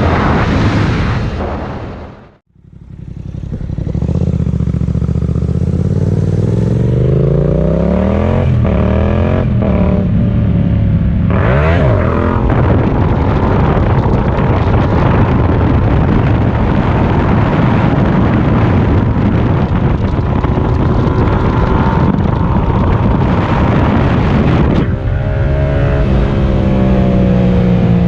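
Yamaha MT-series motorcycle engine accelerating hard, its pitch climbing in several rises, with a steady rush of wind between them. The sound drops out sharply for a moment about two seconds in.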